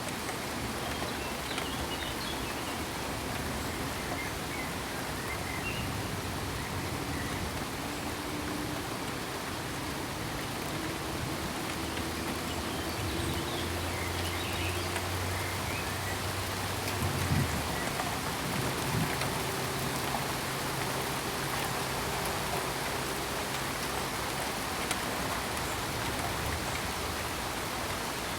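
Steady rain falling, an even hiss of drops throughout, with a few single louder drop hits about two-thirds of the way in. A faint low hum comes and goes underneath.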